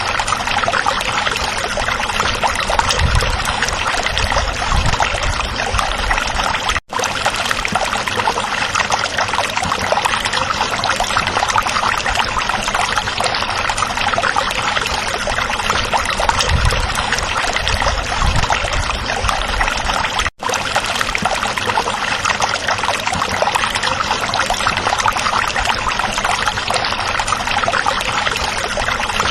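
Stream water flowing in a steady, babbling rush. The sound cuts out for a split second twice.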